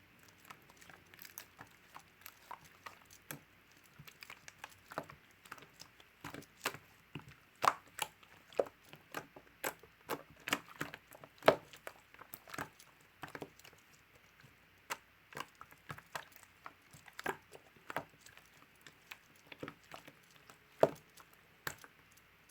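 Mixed slime being kneaded and squeezed by hand, giving off irregular sharp clicks and pops, a few of them much louder than the rest.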